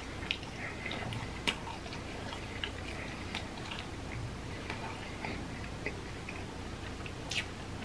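A person chewing a mouthful of food close to the microphone, with soft, irregular mouth clicks and smacks.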